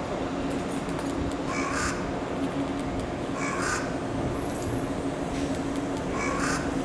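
A bird calling in short, separate calls, three of them about two seconds apart, over the steady low hum of an electric train standing at the platform.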